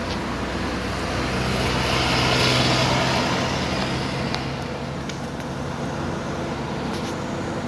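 Car driving on a road: steady engine hum and tyre noise, swelling louder around two to three seconds in and easing off again.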